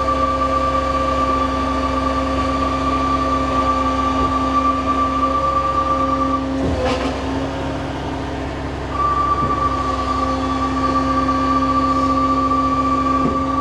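Fire ladder truck running, a loud steady mechanical whine over a low rumble. The whine drops out about six seconds in, with a brief clunk, and picks up again about three seconds later.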